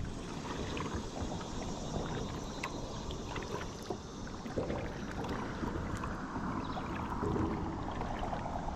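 Kayak paddling on a river: water splashing and dripping around the hull and paddle, with many small scattered splashes and drips.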